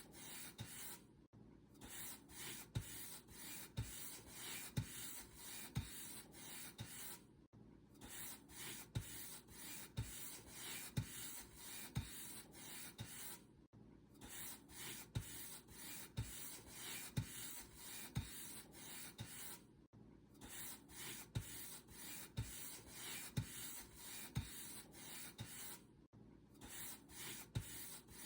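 Paint brush stroking back and forth across a surface, a steady scratchy rub with a soft knock about once a second. A short pause breaks the strokes about every six seconds.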